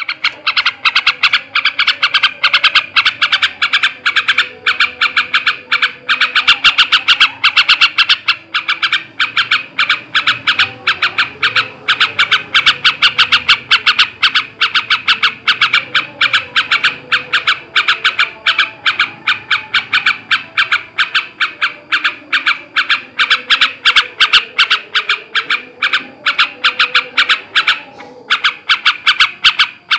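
Male yellow-vented bulbul (trucukan) calling in a rapid, continuous stream of short, harsh chattering notes, several a second, with a brief break near the end. This is the excited 'ngebren/ngekek' chatter of a male in high breeding condition.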